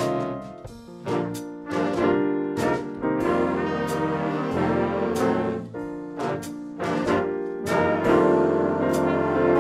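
A student band playing, with brass (trombones and trumpets) carrying sustained chords, punctuated by sharp percussion hits about once a second.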